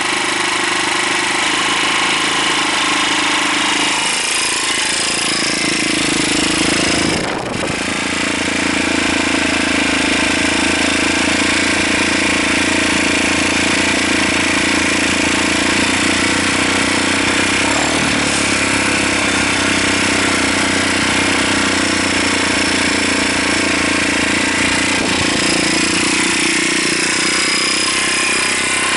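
Honda FTR223's single-cylinder engine running steadily at idle through an aftermarket Moriwaki ZERO muffler, with a change in its note about four seconds in and a brief dip about seven seconds in.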